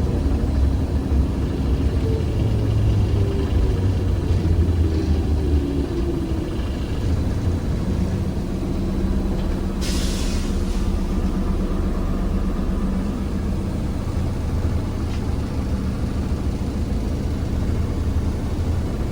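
ZiU-682G trolleybus under way: steady running rumble with a motor whine that glides up and down in pitch. About ten seconds in comes a short hiss of released compressed air.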